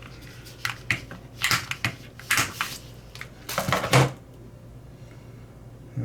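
Small hard parts being handled and sorted on a workbench: a run of short clicks and knocks in the first four seconds, the loudest near four seconds.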